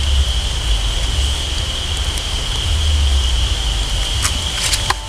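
An insect shrills steadily at one high pitch over forest background, with a heavy low rumble on the microphone. A few sharp clicks come near the end.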